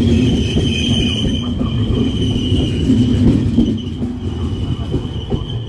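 Trenitalia double-deck regional passenger train running past: wheels rumbling on the rails with a steady high wheel squeal. The rumble eases about four seconds in as the last coach goes by.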